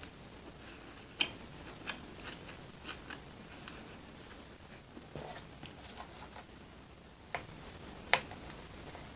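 Close-miked chewing of a cheeseburger with the mouth closed: a dozen or so scattered soft wet mouth clicks and smacks, two sharper ones about a second in and near the end.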